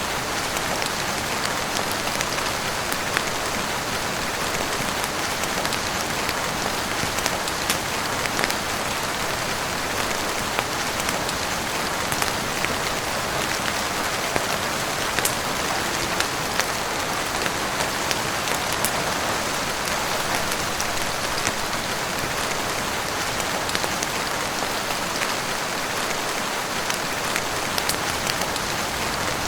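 Heavy rain falling steadily on a roof, an even hiss with scattered small sharp ticks throughout.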